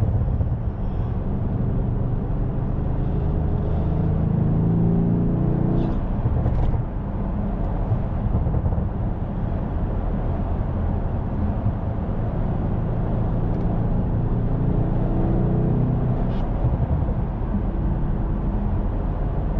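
Audi S7's twin-turbo engine pulling under acceleration, its pitch climbing for a few seconds, dropping suddenly about seven seconds in, then climbing again in the second half, over steady road noise.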